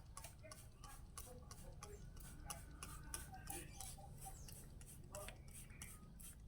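Faint, irregular light clicks, a few a second, over a low steady background hum, with faint short chirps.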